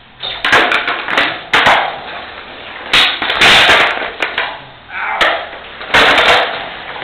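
Skateboard session sounds: a series of sharp wooden knocks from the deck, with short scraping bursts of wheels and trucks in between, the longest a noisy scrape about three seconds in.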